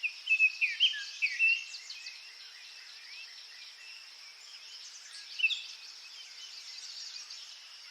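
Small birds chirping and twittering over a steady high hiss. There is a busy run of quick chirps in the first two seconds, then a few scattered calls, and another short flurry about five and a half seconds in.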